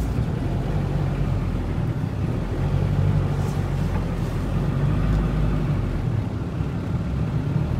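A car engine running steadily at low revs during a slow tow-strap manoeuvre, a continuous low hum with no sharp events.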